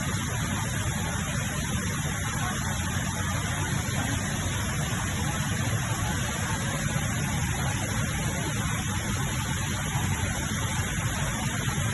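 Steady rushing roar of water falling in the Rain Vortex, the large indoor waterfall at Jewel Changi Airport.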